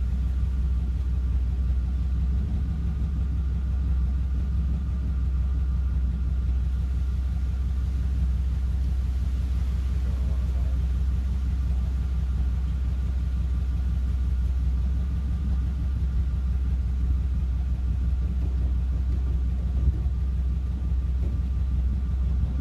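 Pickup truck engine idling steadily, a low rumble with a faint constant whine above it.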